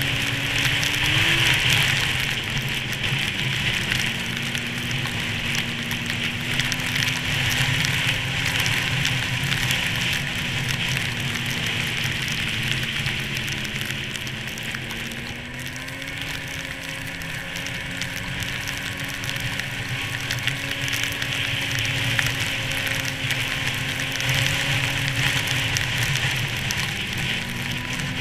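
1998 Arctic Cat SRX 700 snowmobile's two-stroke engine running at a fairly steady cruise, its pitch rising and dipping a little now and then, under a strong rushing hiss of wind and snow.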